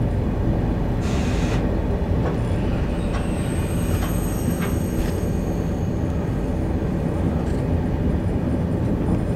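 Steady low rumble of a TGV train, heard from inside the carriage as it rolls along, with a few faint clicks. A faint high-pitched squeal comes in between about three and five seconds in.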